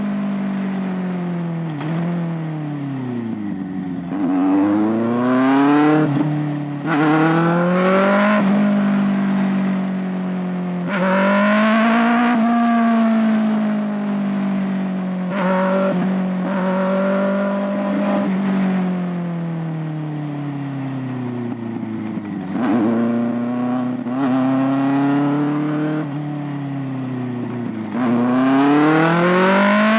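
Kawasaki ZX-6R 636's inline-four engine and exhaust accelerating hard again and again: the pitch climbs and drops at each upshift, between stretches of steady cruising and falling pitch as the bike slows.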